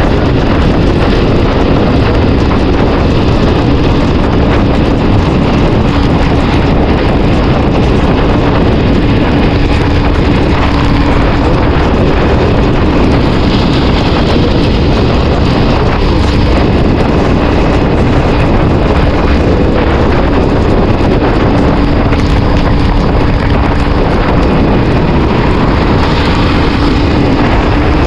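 Loud, steady wind rush on the rider's microphone while riding a CFMoto 450SR in heavy rain, with the motorcycle engine's steady hum faintly under it.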